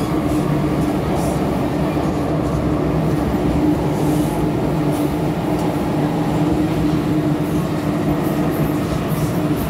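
MTR Kwun Tong Line M-Train electric multiple unit running at a steady speed: an even rumble of wheels and motors with a constant low hum.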